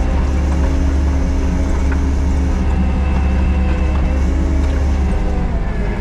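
Kubota SVL97-2 compact track loader's four-cylinder diesel engine running steadily under work, with its pitch dipping briefly near the end.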